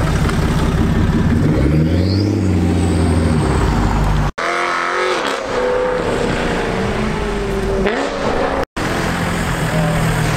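Car engines in three short cuts. First an engine's note rises and levels off as a car pulls away. Then another engine revs with its pitch climbing and falling. Near the end a third car drives up with its engine running.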